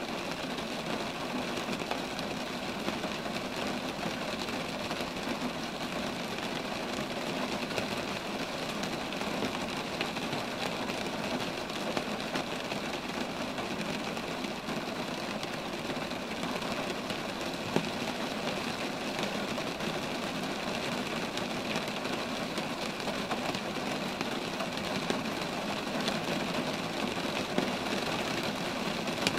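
Steady rain falling on roadside trees, an even wash of noise with a few sharper drops standing out, one near the middle and another near the end.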